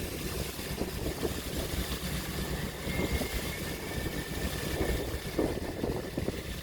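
Open-sea waves washing and splashing irregularly over a steady low rumble.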